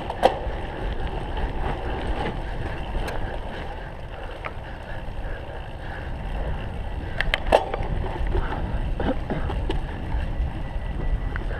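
Cyclocross bike being ridden over rough ground, a steady rumble of wind and rolling tyres with a few sharp knocks and rattles from the bike jolting, the loudest about seven and a half seconds in.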